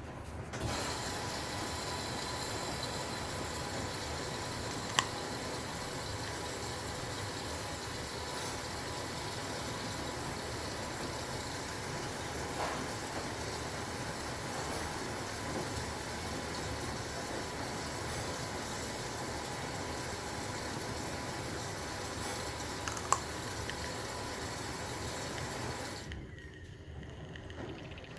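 Maytag washing machine filling with water: a steady rush of water into the tub that cuts off suddenly near the end, with two sharp clicks along the way.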